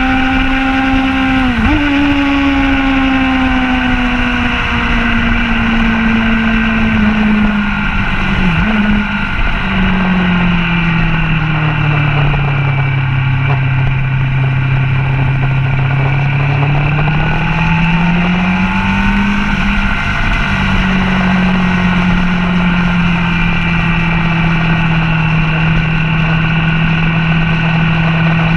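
Sport motorcycle engine heard onboard at speed on a racetrack, over steady wind rush. The engine note falls with a couple of downshifts, sits lowest through a slow corner about halfway, then climbs as the throttle opens on the corner exit. An upshift comes about two-thirds through, and the note then holds steady.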